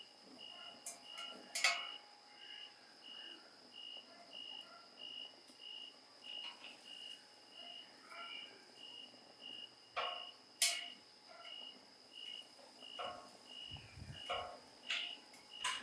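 Crickets chirping in an even rhythm, about two chirps a second, over a steady high insect trill. Firewood burning in the fire pit gives occasional sharp crackles and pops, the loudest about two-thirds of the way through.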